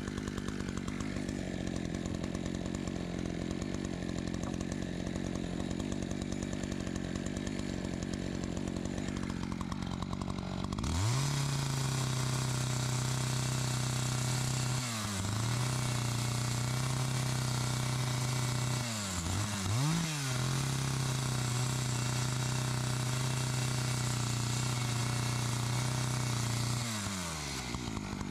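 Chainsaw running at idle, then revved up about eleven seconds in and held at high speed, its pitch sagging and recovering twice under load as it cuts into wood. It drops back to idle near the end.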